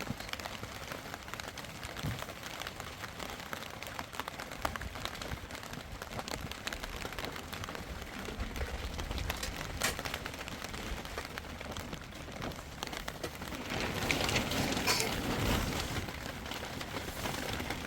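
Steady rain falling, a dense patter of drops that grows louder for a couple of seconds about fourteen seconds in.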